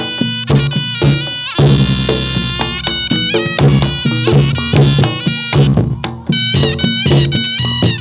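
Reog Ponorogo gamelan music for jathilan dance: a shrill double-reed slompret plays a bending melody, with one long held note about two seconds in, over steady kendang drum strokes.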